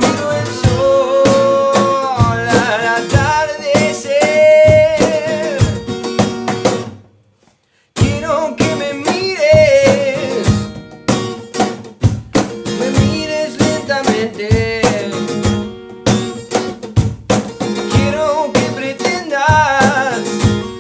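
A band playing live: acoustic guitar with percussion and a gliding melodic line over it. The music stops about seven seconds in and comes back a second later with sharp percussive hits.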